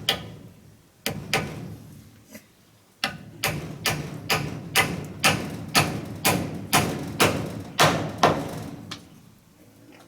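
Repeated heavy blows at a steady pace of about two a second, each a sharp knock with a low rumble after it. A few separate blows come first, and the steady run starts about three seconds in and stops near the end.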